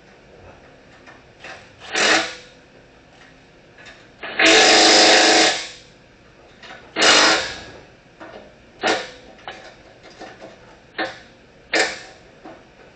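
Impact wrench run in about six short bursts, the longest a little over a second, tightening the exhaust clamp and hanger nuts on a new muffler and tailpipe.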